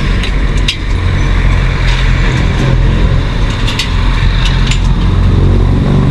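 Road traffic: a loud, steady low engine rumble, with a few sharp clicks scattered through it.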